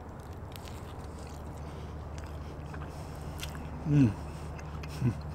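A man biting into a soft-bun cheeseburger and chewing, with two short falling "mmm" hums of enjoyment, the first about four seconds in and the louder. A steady low hum runs underneath.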